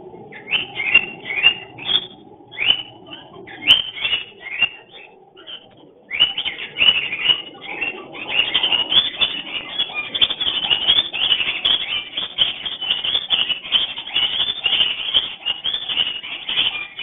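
Cockatiels giving breeding-season mating calls: short high chirps a few per second at first, then, after a brief pause about six seconds in, a fast unbroken stream of chirping.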